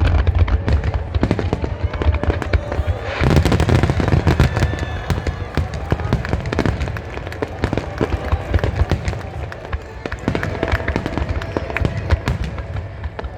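Fireworks finale barrage: a dense, continuous run of aerial shell bursts, booms and crackles over a low rumble, heaviest from about three to five seconds in.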